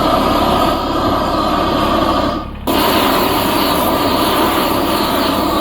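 Kubota BX23s compact tractor's diesel engine running hard at high revs, a loud steady drone. It breaks off abruptly about two and a half seconds in and picks up again straight away.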